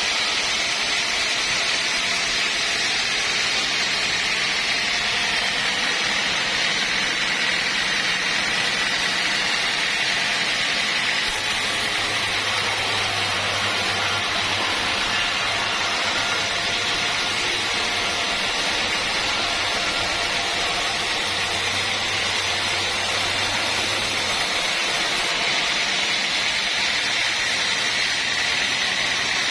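Sawmill machinery running steadily: a constant hiss with a high whine, and a low hum that fades in and out a few times.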